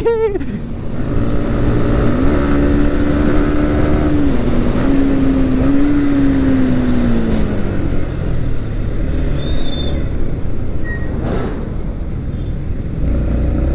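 Yamaha MT-15's single-cylinder engine under acceleration, its note rising about two seconds in, dipping briefly, then falling away as the throttle is eased off, with steady wind and road noise over it.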